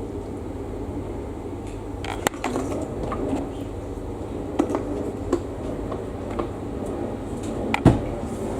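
A steady low mechanical hum with a few sharp clicks and knocks scattered through it, the loudest knock near the end.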